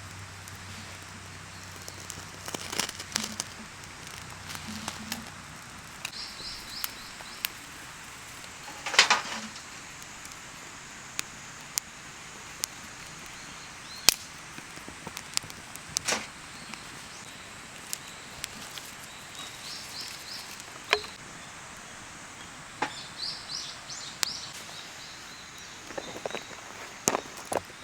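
Wood campfire crackling: irregular sharp cracks and pops over a steady hiss. A bird chirps in short quick runs a few times.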